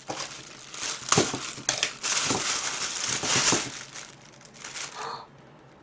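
Gift packaging being unwrapped by hand, crinkling and rustling in irregular bursts with a few sharp crackles, stopping about five seconds in.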